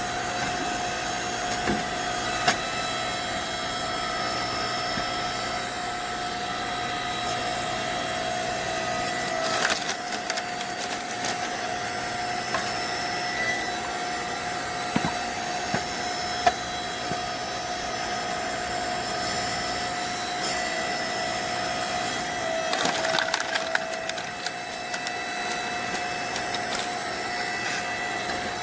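A log splitter's motor hums steadily while a log cracks and splinters as it splits along the grain, with the loudest crackling bursts about a third of the way in and again about three-quarters through.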